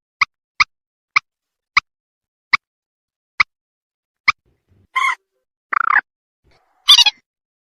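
Common moorhen calling: a run of short, sharp notes that slow down, then three longer, harsher calls near the end.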